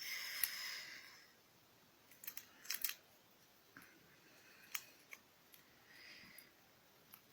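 A small plastic candy wrapper being opened: a short crinkling rustle in the first second, then scattered light clicks and crackles as the packet is handled.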